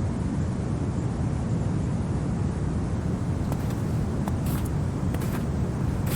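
Steady low winter wind, a deep even rumble with no gusts, with a few faint clicks in the second half.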